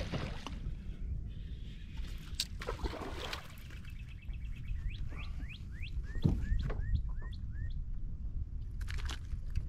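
A bird calls with a run of short rising chirps, about two a second, from about five to eight seconds in, over a steady low rumble of wind and water. A fishing reel ticks briefly around four seconds in as a hooked bass is reeled to the boat.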